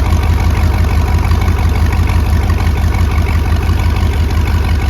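5.7-litre V8 marine engine idling steadily, a loud, even low rumble with a fast regular pulse.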